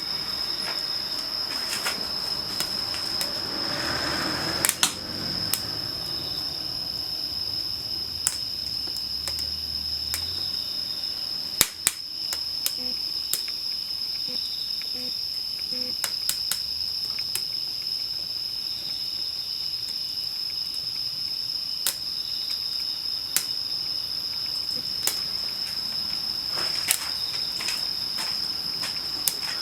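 Wood campfire crackling, with irregular sharp pops from the burning firewood, two of them louder about 5 and 12 seconds in. A steady high-pitched insect trill of crickets runs underneath.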